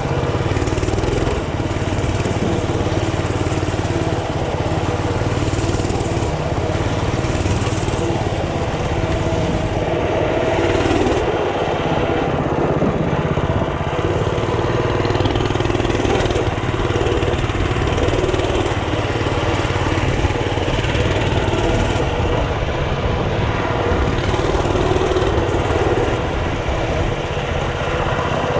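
Mini bike's small engine running steadily and continuously, with only small changes in pitch.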